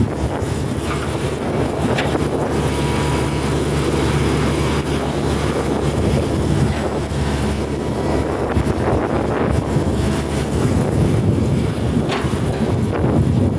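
Diesel engine of a hydraulic excavator running steadily, with a constant low hum and a few faint knocks and clicks.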